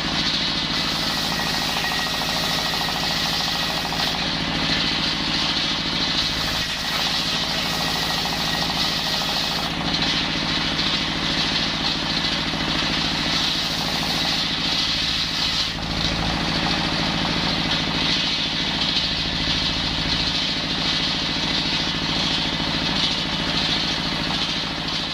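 Engine-driven circular saw (serkel) running steadily, its engine note holding with small shifts every few seconds.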